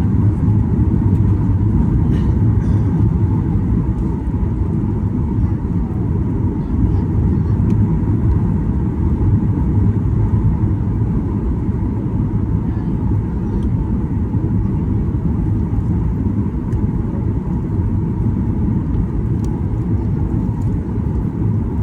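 Steady low rumble of engine and airflow noise inside the cabin of a Boeing 737-800, with a faint steady tone above it.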